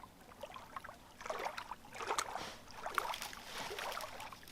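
Small fire of feather sticks and kindling, freshly lit, crackling and popping irregularly.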